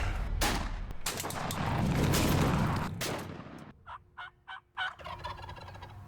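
Wild turkey gobbling: a rapid rattling call about four seconds in. It follows a few seconds of loud bangs and rushing noise.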